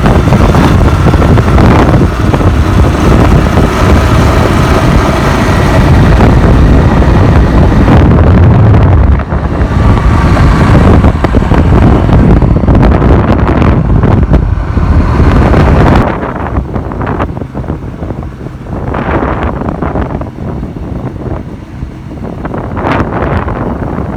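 Motorcycle riding at speed: heavy wind buffeting on the microphone over the Bajaj Pulsar NS160's single-cylinder engine. The wind noise drops suddenly about two-thirds of the way through and stays lower.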